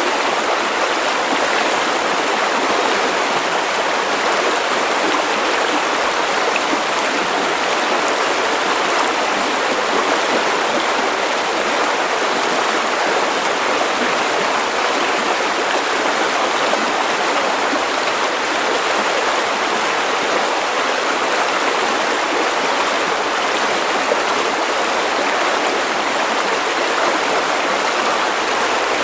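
River water running steadily over stones, a constant rushing flow.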